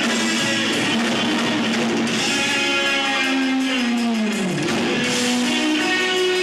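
Live rock band playing, electric guitar to the fore over a drum kit. About four seconds in, a held note slides down in pitch.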